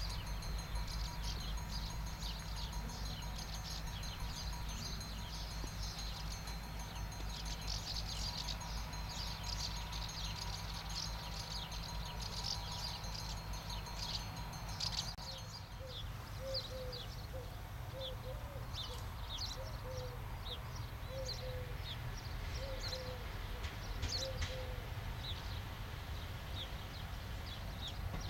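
Birds chirping and singing, many short high calls over a steady low rumble; from about halfway, a bird repeats a short, lower note roughly once a second.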